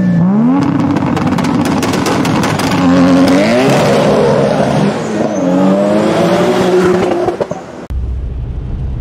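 A car engine accelerating hard, its pitch climbing and dropping back several times as it shifts through the gears. Near the end it cuts to the steady low rumble of road noise inside a moving car's cabin.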